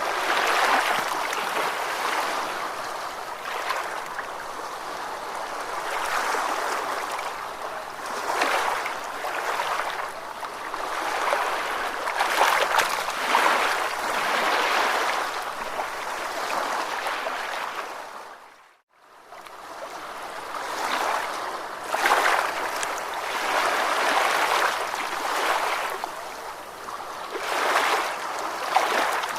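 Ocean waves washing ashore, the surf swelling and receding every few seconds. It fades out briefly about two-thirds of the way through, then comes back.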